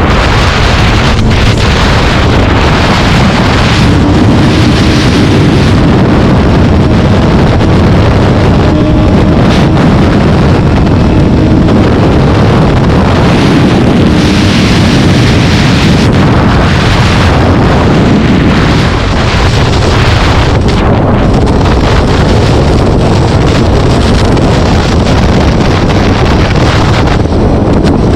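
Heavy wind buffeting the microphone over the steady drone of a vehicle's engine while cruising at speed.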